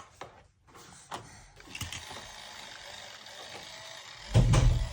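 Toy vehicles being handled, giving small mechanical clicks and rattles over a steady hiss, then a loud low thump near the end.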